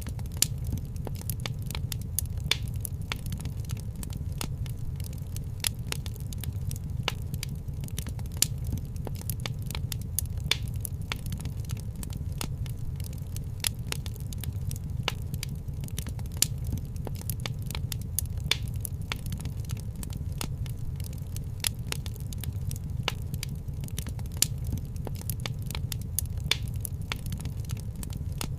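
Wood fire crackling in a fireplace: many irregular sharp pops and snaps, several a second, over a steady low rumble of the flames.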